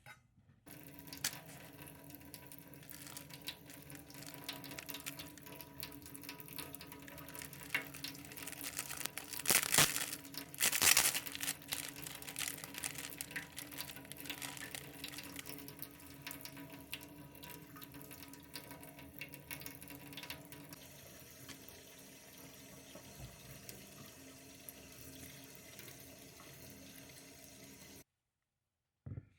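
Water running from a kitchen tap into a sink, steady, briefly louder about ten seconds in, then cutting off suddenly near the end.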